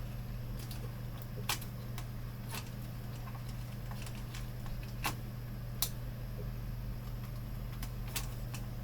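Scattered light clicks and ticks of fingers and tools handling the monitor's main board and its panel ribbon-cable connector, over a steady low hum.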